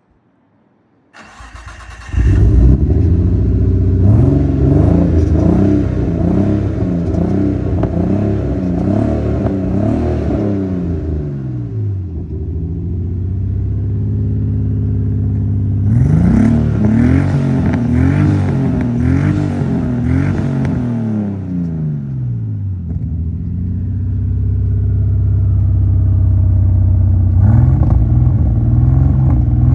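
Nissan Skyline R34's straight-six engine cranking briefly and catching on a cold start, then blipped through a series of revs, settling to idle and revved again in two more bursts.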